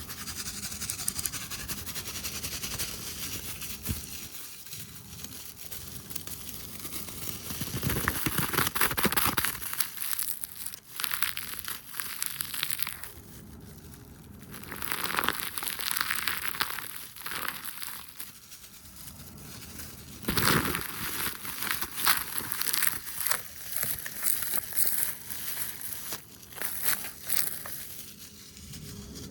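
Fast, aggressive ASMR brushing and tapping on a camera lens and hand sounds right at the microphone: dense crackly rustling and quick taps that come in bursts, with quieter stretches between them.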